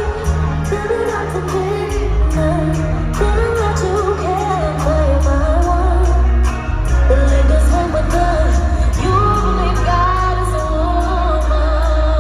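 Live pop music: a woman's voice singing long, sliding vocal runs over a heavy bass line.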